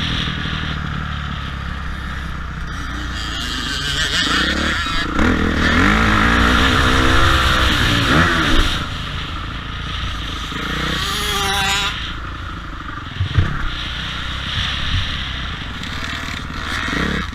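Motocross bike engines running and revving, the pitch rising and falling several times; loudest around the middle, with a short climbing rev near the end.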